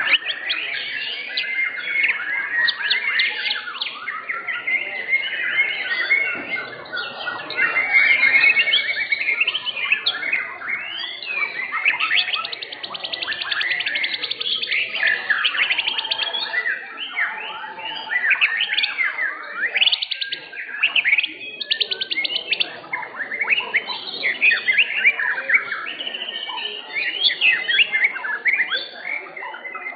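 White-rumped shamas (murai batu) singing nonstop, a dense tangle of whistles, sweeping notes, chattering and rapid rattling trills from several birds at once.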